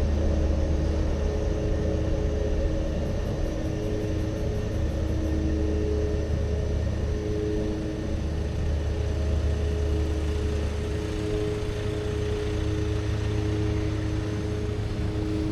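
A steady low engine rumble with a humming tone that fades in and out above it.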